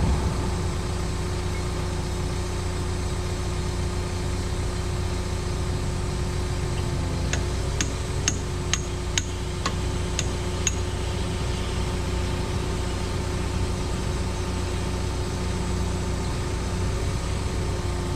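Cat 314E excavator's diesel engine idling steadily, with a quick run of about eight light, sharp clicks a little before the middle.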